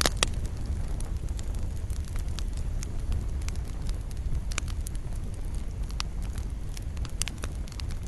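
Campfire wood burning and crackling, with irregular sharp pops over a steady low rumble and a loud pop right at the start.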